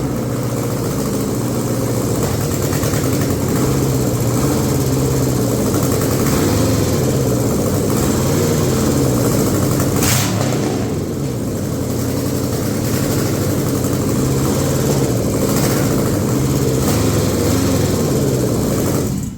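Junkyard 5.3-litre GM LS V8 on an engine stand, running steadily just after being started, its pitch wavering slightly. A brief sharp noise about ten seconds in; the engine sound stops suddenly at the end.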